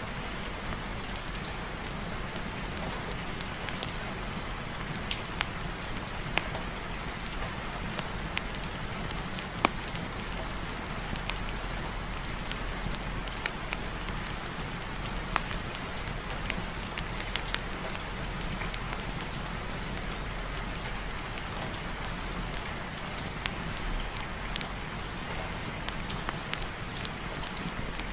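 Steady heavy rain falling on a surface, an even hiss with a low rumble underneath and many scattered sharp pops and drips throughout.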